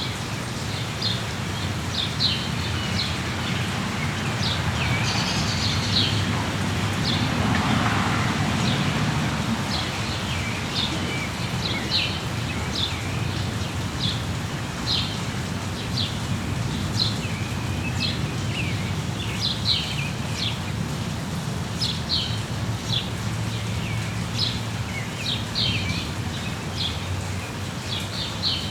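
Steady rain with small birds chirping over it, short high chirps coming once or twice a second. The rain swells briefly about eight seconds in.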